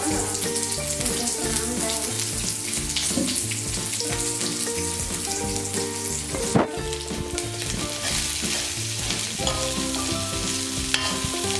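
Onions frying in hot oil in a pan, sizzling steadily while they are stirred, with one sharp knock about halfway through. Background music plays underneath.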